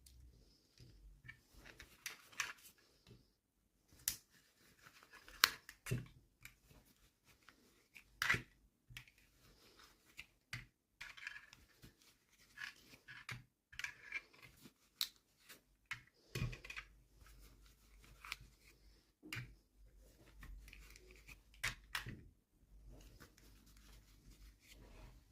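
Handling of toy packaging during an unboxing: irregular sharp clicks and taps with short bursts of rustling and tearing, fairly quiet.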